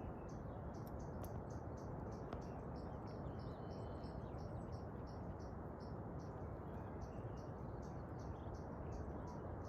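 Steady rushing outdoor noise with a small animal's high chirps repeating evenly, about two or three a second.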